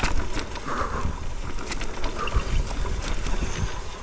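Mountain bike descending a rough, slippery dirt trail: wind buffeting the microphone, tyres rumbling over dirt and rock, and the bike rattling with many short clicks.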